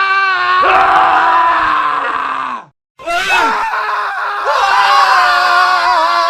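Men screaming, several screams from different voices cut one after another and overlapping. About two and a half seconds in the sound cuts off suddenly for a moment of silence, then more screaming starts.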